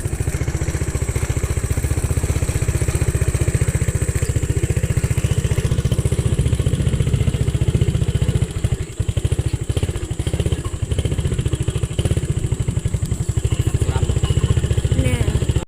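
Motorcycle engine running steadily under way, its firing pulses even throughout, with a brief dip about nine seconds in.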